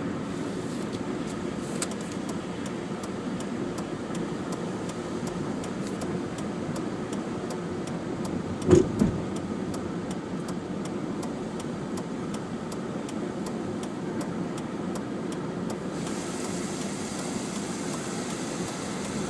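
Taxi cab on the move, heard from inside the cabin: steady engine and road noise. A run of evenly spaced light ticks goes on for most of it, and two quick thumps come near the middle.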